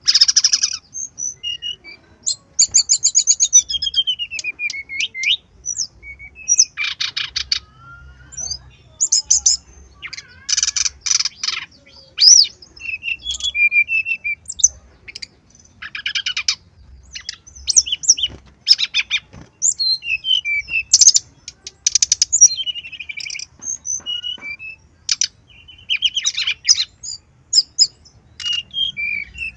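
Brown-chested jungle flycatcher singing a varied, loud song of rapid trills, chattering notes and whistles, with a falling whistled glide about 3 seconds in; a master recording packed with borrowed phrases (isian).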